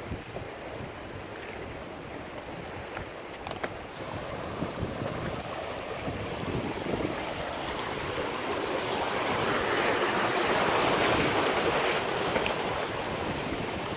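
River water rushing over a waterfall, a steady roar that grows louder about two-thirds of the way through. Wind buffets the microphone underneath.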